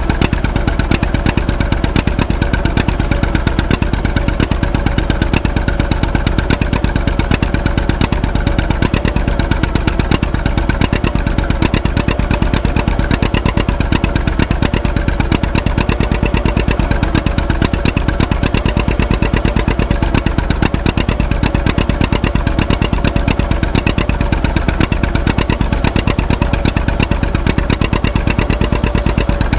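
Antique tractor engine running steadily, its firing pulses coming fast and even, with no change in speed.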